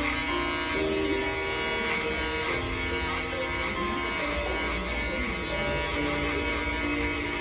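Electric hair clippers buzzing steadily.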